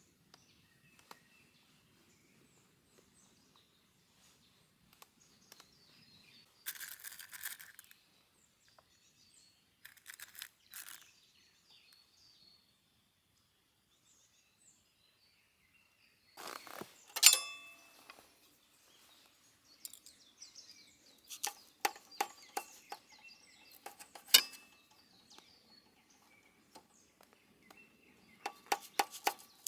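Faint birdsong in a quiet forest, broken by groups of sharp clicks and clinks with a brief ringing tone, the loudest about 17 seconds in and a quick run of clicks from about 21 to 25 seconds.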